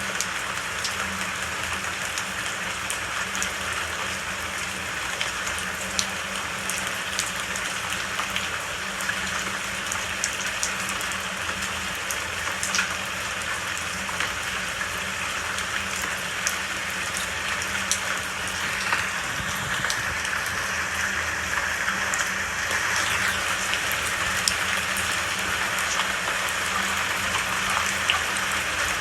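Steady rain falling, with many individual drops ticking sharply over the even hiss; it grows slightly louder in the second half.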